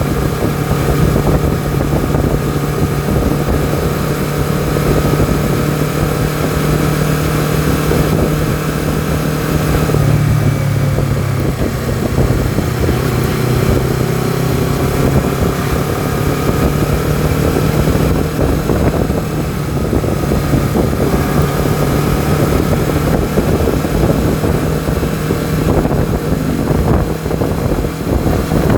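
Honda CBR250RR's parallel-twin engine running steadily under way, heard from the rider's position with wind on the microphone. The engine note changes about ten seconds in, then settles again.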